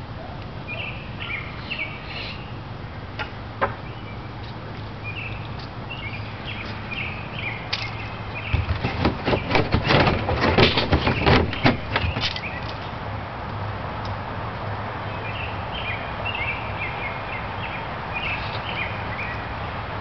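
Small birds chirping in short bursts over a steady low hum. About eight seconds in, a few seconds of loud, rapid clattering close to the microphone.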